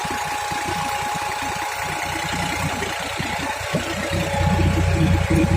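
Tractor engine running with a rapid, even chug, growing louder about four seconds in.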